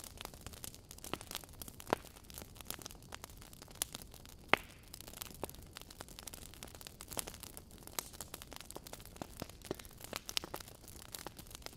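Wood fire in a fireplace crackling: irregular sharp pops and snaps from burning logs over a soft low rumble of flame, with one louder pop about four and a half seconds in.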